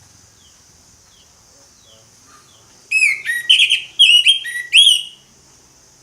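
Orange-headed thrush singing: a few faint descending notes, then from about halfway in a loud, quickly varied phrase of whistled notes lasting about two seconds. A steady high hiss runs underneath.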